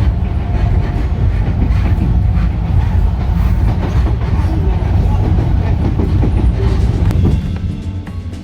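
Small narrow-gauge electric train on 762 mm track running with a heavy low rumble and wheels clattering over the rail joints. It drops away about seven seconds in.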